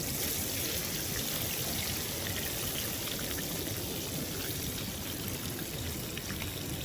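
Piau fish pieces sizzling in hot oil in a pan, a steady hiss with scattered crackles and pops.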